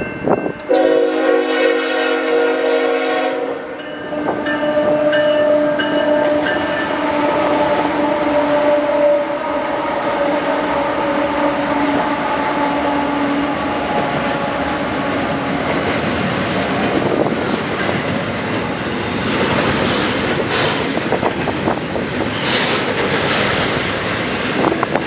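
Locomotive horn sounding a multi-note chord for about three seconds, followed by a lower steady tone that lasts several more seconds. After that comes the rolling rumble of an intermodal freight train's cars going by, with rapid wheel clicks near the end.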